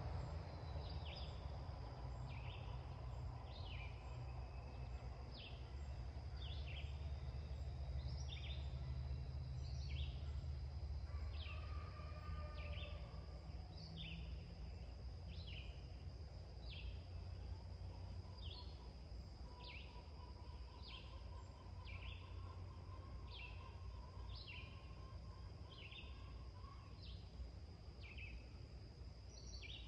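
A bird repeats a short falling chirp about once a second, steadily, over a continuous high-pitched whine and a low rumble that fades after the first half.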